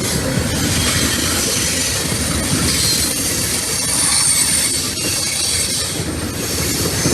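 Freight train cars rolling past, with a steady rumble of wheels on rail, clicking over rail joints and a faint high wheel squeal.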